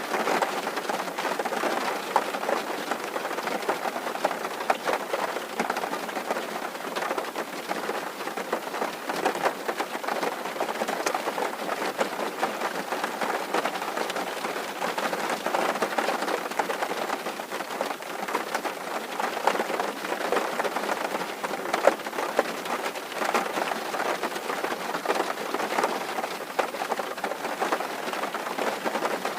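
Rain pattering steadily on a tin roof: a dense, even patter of countless small drop impacts on the metal.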